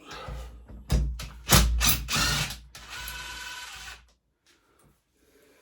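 Ratchet wrench with a 10 mm socket clicking as it undoes the bolts of a pit bike engine's valve cover, in several bursts over the first four seconds.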